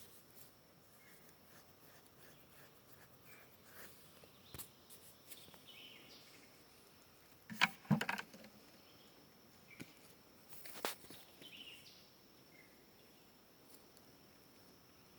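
Quiet woodland ambience: a steady high insect drone with a few faint chirps over it, and scattered short crunches and rustles, loudest about eight seconds in and again near eleven seconds.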